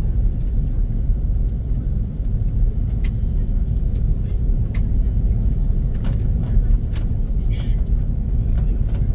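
Steady low rumble inside the cabin of an Airbus A330-300 with Rolls-Royce Trent 772B-60 engines, as the airliner moves on the ground, with a few faint clicks.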